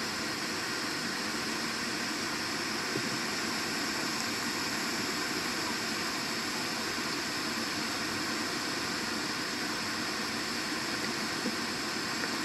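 Steady hissing noise with no distinct events.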